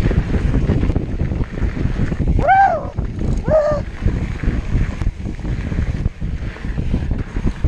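Wind buffeting the microphone on a fast mountain-bike descent, over a constant low rumble. About two and a half seconds in, two short pitched calls rise and fall, one after the other.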